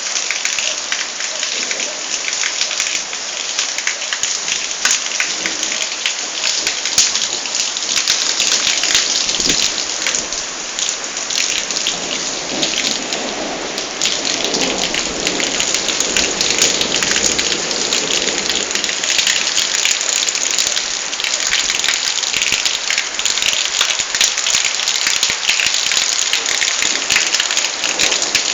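Heavy rain pouring and pattering steadily in a thunderstorm, with a low roll of thunder swelling and fading about halfway through.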